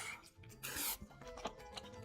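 Close-miked eating and food-handling sounds: a short rustling burst about two-thirds of a second in, the loudest moment, with small clicks and scrapes around it, over soft background music with held notes.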